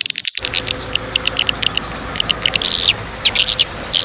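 Small birds chirping, many short high calls in quick runs, over a steady rushing noise that starts about half a second in.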